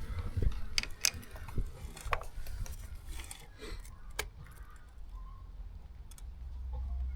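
Scattered sharp metallic clicks and taps of hand tools working at a dirt bike chain link, over low rumbling handling noise; a steady low hum comes in near the end.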